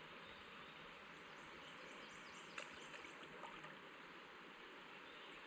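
Faint, steady rush of river water running over rocky shoals, with one brief click about two and a half seconds in.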